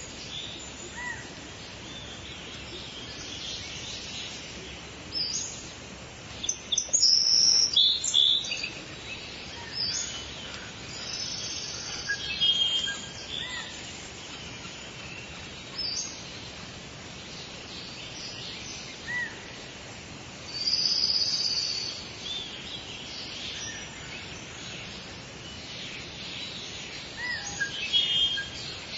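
Several wild birds chirping and trilling over a steady background hiss, with short high calls scattered throughout and a few louder bursts of song.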